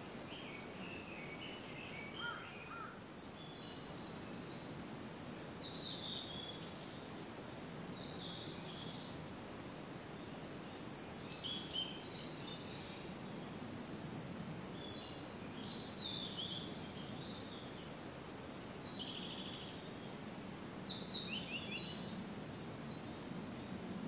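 Wild songbirds singing: short, high phrases of quick repeated notes about every one to two seconds, with a lower call near the start, over a steady low background rush.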